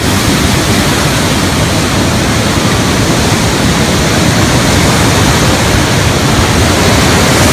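Loud, steady rush of water from a natural rock water slide, starting suddenly and holding without a break.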